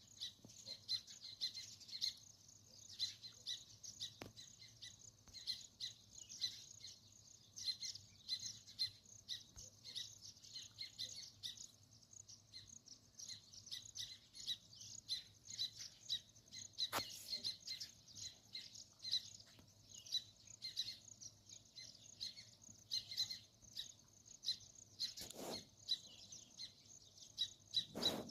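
Sparrows chirping in a dense, continuous stream of quick high chirps, with a couple of sharp clicks.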